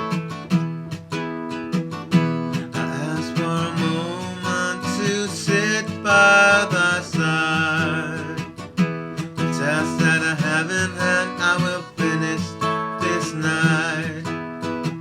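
Acoustic guitar music, the instrumental opening of a song: plucked and strummed chords, with a wavering, vibrato melody line coming in over them about six seconds in.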